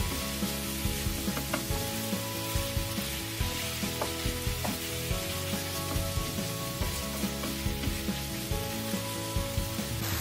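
Mixed minced meat and diced peppers sizzling in oil in a nonstick frying pan, with a spatula stirring and scraping through it and small irregular clicks of the spatula on the pan.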